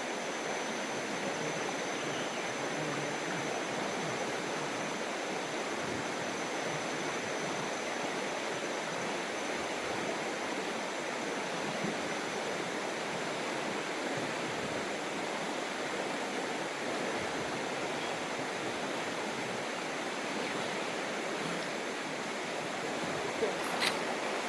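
Steady rush of a mountain river's flowing water, with a couple of brief clicks near the end.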